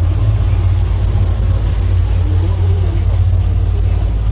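Boat engine running steadily, heard on board as a loud, even low drone.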